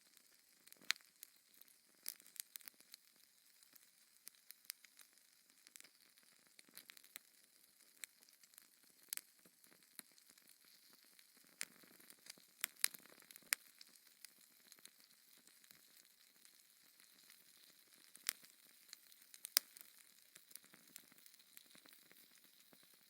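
Fire in a fireplace crackling: irregular sharp pops and snaps over a faint hiss.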